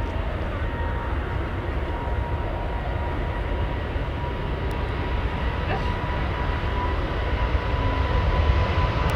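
Twin GE90 turbofans of a Boeing 777-300ER at takeoff power, a steady rumble with a thin high whine, slowly growing louder as the jet comes closer.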